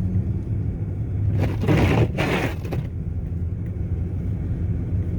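A steady low rumble with a loud crunching, crackling noise from about one and a half seconds in, lasting about a second.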